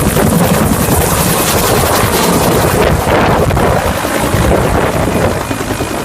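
Helicopter running close by: loud, steady rotor and engine noise.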